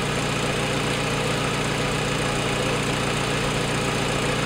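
Freshly rebuilt FSO Warszawa M20 four-cylinder side-valve engine idling steadily at low revs on a test stand, still warming up after its first start.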